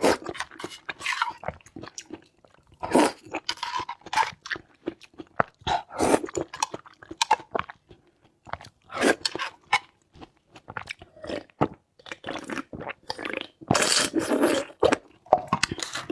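A person chewing and crunching food close to the microphone, in irregular bites and munches, with a longer, louder stretch of crunching about fourteen seconds in.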